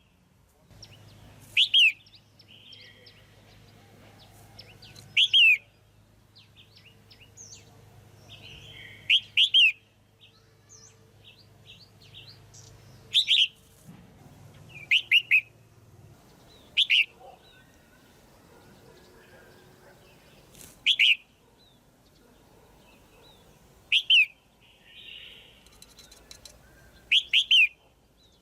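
Female red-whiskered bulbul calling: short, sharp, quickly falling notes, single or doubled, repeated every two to four seconds, with fainter chirps in between.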